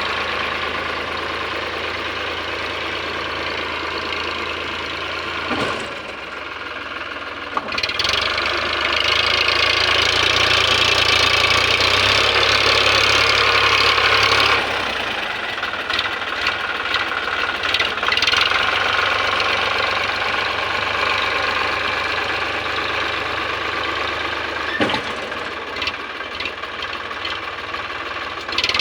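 Eicher 557 tractor's diesel engine running steadily while working a field leveller. It dips briefly about six seconds in, runs louder for several seconds after that, then settles back.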